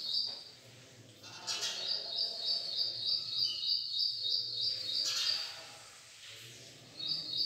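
A bird chirping: a quick run of repeated high chirps, about three a second, starting about two seconds in and stopping around five seconds, then starting again near the end.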